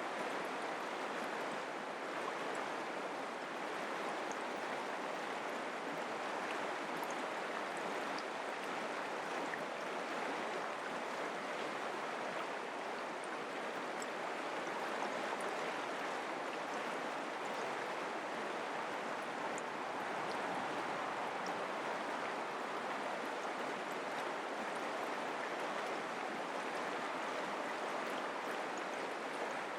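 Mountain creek water running and babbling over rocks, a steady rushing sound.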